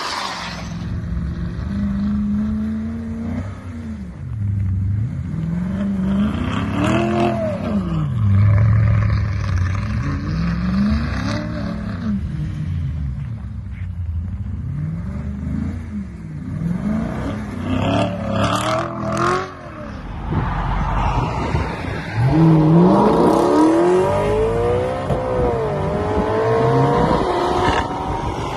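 Audi RS5 B8's 4.2-litre V8 breathing through an Armytrix exhaust, revved again and again so the pitch rises and falls in quick blips, with a few sharp exhaust cracks about two-thirds through. About three-quarters through comes a longer rising pull as the engine climbs through the revs.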